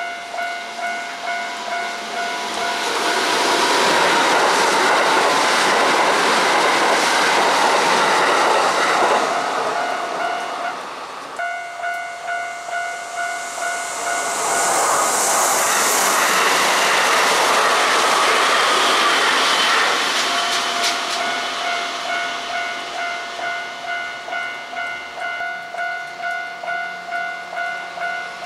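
Two Kintetsu Osaka Line electric trains pass one after the other, each with several seconds of loud wheel-on-rail running noise, and a brief high hiss during the second. Between and around them a level-crossing warning bell keeps ringing in even pulses, about one and a half a second.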